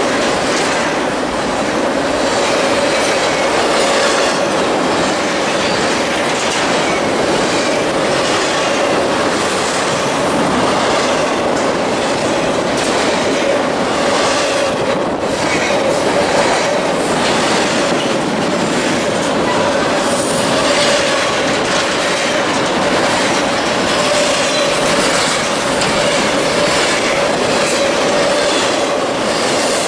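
Double-stack intermodal container train rolling past at speed: a steady, loud rumble of wheels with repeated clacking over the rail joints and a thin, steady high tone from the wheels.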